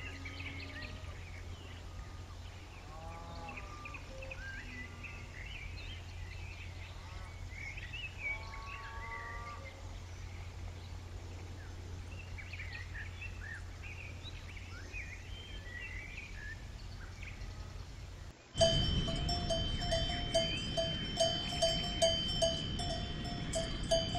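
A steady low hum with many short high chirps, and two brief bleat-like livestock calls, a few seconds in and again near the middle. About 18 seconds in the sound cuts abruptly to a cowbell on a grazing cow clanking rhythmically, two or three strokes a second, and louder.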